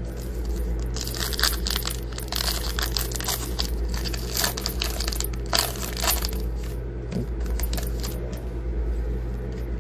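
Foil trading-card pack being torn open and its wrapper crinkled: a dense crackling that runs from about a second in until about three seconds before the end, over a steady low hum.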